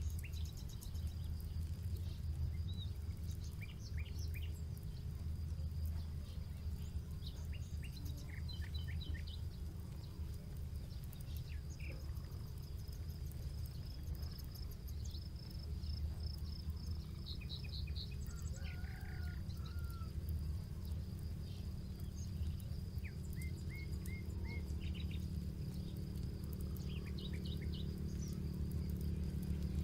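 Campfire crackling with faint scattered pops over a steady low rumble, while birds chirp here and there and an insect keeps up a steady high trill.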